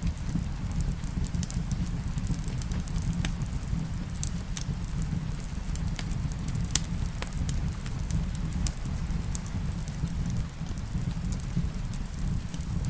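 Wood fire crackling in a fireplace, with irregular sharp pops scattered throughout over a steady low rumble. Rain falls with an even hiss beneath it.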